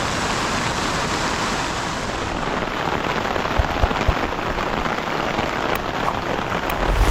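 Steady heavy rain falling, a dense even hiss, with two brief low thumps a little past the middle.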